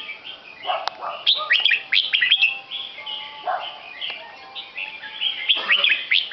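Birds chirping: quick runs of short, high chirps with brief pauses between the runs.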